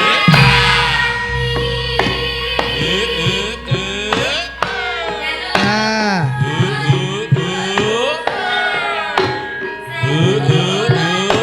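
Javanese gamelan music with hand-drum strokes whose pitch slides, over sustained metallic tones, with a singing voice.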